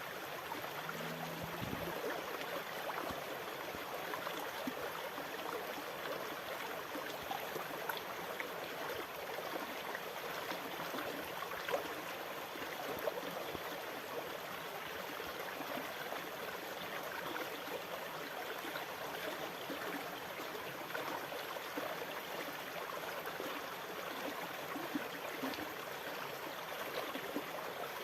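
Steady rushing of sea water, an even wash of noise with small scattered crackles running through it.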